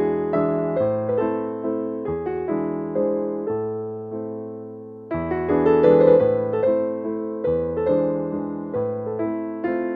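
Soft background piano music: flowing, gently struck notes, each fading away, with a fuller phrase beginning about halfway through.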